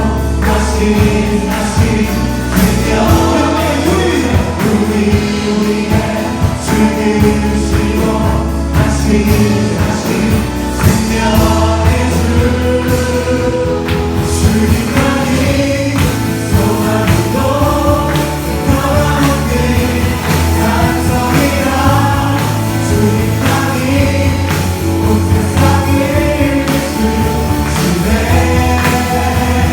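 Live Korean contemporary worship song: a praise team and congregation singing together over a band with bass and drums.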